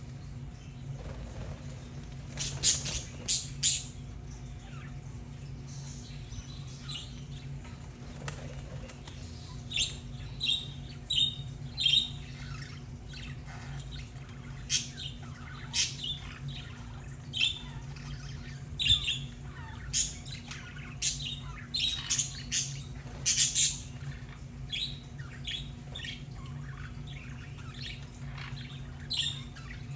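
Budgerigars chirping and chattering: many short, sharp chirps coming in scattered clusters, over a steady low hum.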